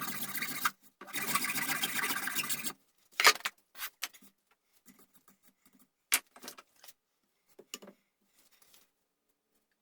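A tool scraping across the wooden gunstock in two long strokes, the second ending a little under 3 seconds in. Then come a few light clicks and knocks as tools and metal parts are handled.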